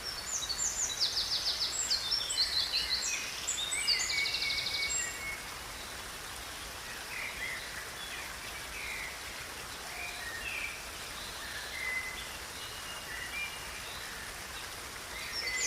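Songbirds singing: fast trilled phrases during the first five seconds and again right at the end, with scattered shorter chirps in between, over a steady background hiss.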